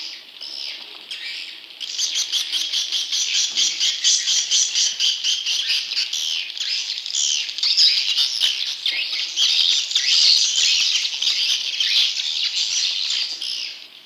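Swiftlet chicks calling: dense, rapid, high-pitched chirping from many birds, a recorded lure sound for drawing wild swiftlets into a nesting house. It grows louder about two seconds in and stops abruptly near the end.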